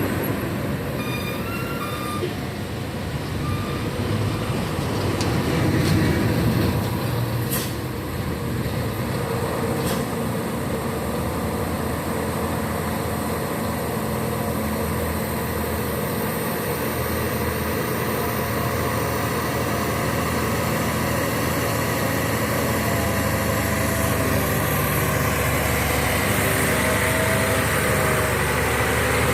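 Heavy diesel truck engine running steadily under load on a climb, with a deep droning hum throughout.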